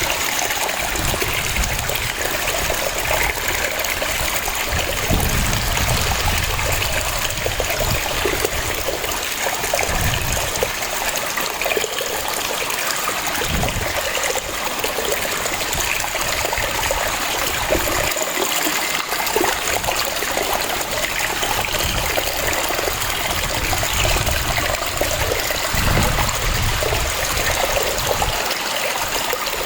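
Waterfall: water falling and splashing in a steady rush, with uneven low surges now and then.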